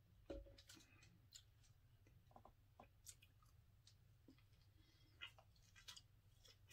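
Faint wet clicks and smacks of a person chewing a mouthful of sandwich, with a soft knock a moment in as a plastic bottle is set down on the table.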